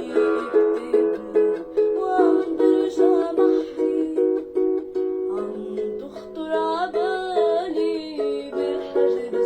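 A plucked string instrument strums a steady, repeating chord pattern. A voice sings a wavering melody with vibrato over it in two phrases, one about two seconds in and a longer one in the second half.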